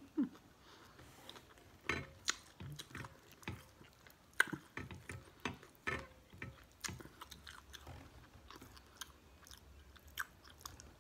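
A person chewing and biting lobster tail meat: irregular wet mouth smacks and short clicks, with brief quiet gaps between them.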